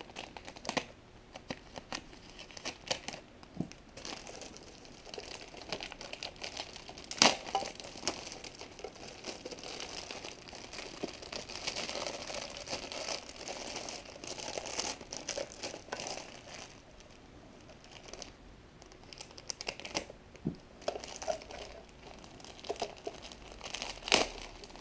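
Packaging being opened and handled: crinkling and rustling with some tearing, scattered small clicks, and a sharper knock about 7 seconds in and another near the end.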